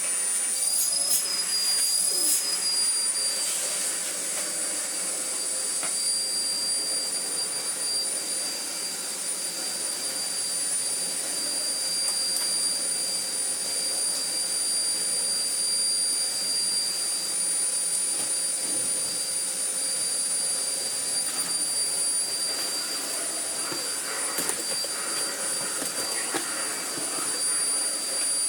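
Miele Blizzard CX1 bagless cylinder vacuum cleaner running while vacuuming, a steady rushing of air with a high motor whine; the whine wavers briefly about a second in, then holds steady.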